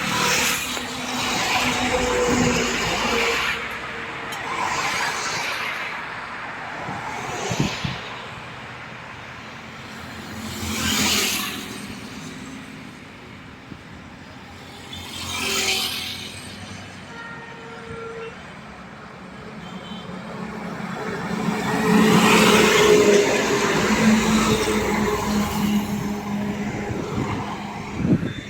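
Highway traffic, mostly heavy trucks, passing one after another, each swelling and fading. The longest and loudest pass, with a steady low engine note, comes about two-thirds of the way in.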